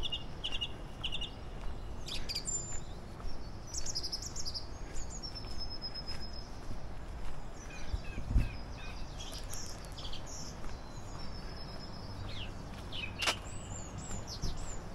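Several songbirds chirping and whistling in short, high calls over a steady low rumble. There is a single low thump just past eight seconds in and a sharp click near the end.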